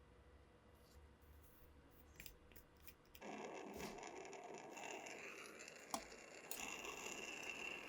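A few faint clicks, then, about three seconds in, a continuous rough scraping begins, as a part is worked by hand during a rifle restoration.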